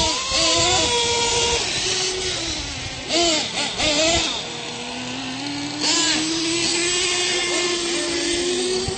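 R/C monster truck motors whining and revving, their pitch gliding up and down, with a long slowly rising whine through the second half.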